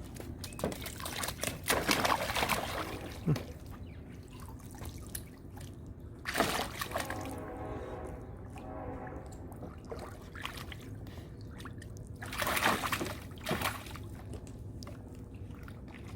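Water sloshing and splashing as a golden retriever plays in a big bucket of water, in a few separate bursts of splashing.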